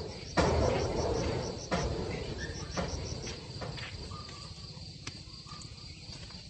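Insect chirping in rapid high pulses, in runs, with three bursts of rustling noise that fade away over the first three seconds and a few faint short squeaks.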